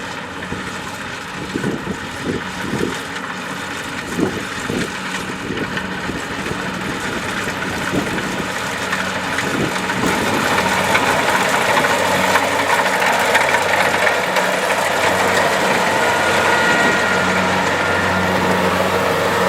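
Kubota DC-70 Plus rice combine harvester's diesel engine running steadily, with irregular knocks in the first several seconds; about halfway through the machine grows louder and busier.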